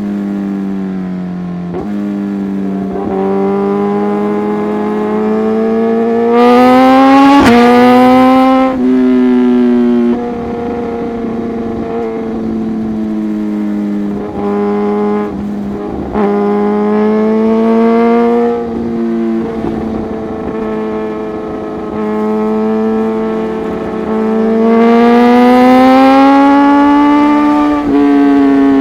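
Liter-class inline-four superbike engine running at highway cruising revs through an aftermarket exhaust, a steady pitched exhaust note. Twice it is opened up, about a quarter of the way in and again near the end, the note climbing higher and louder before falling away sharply.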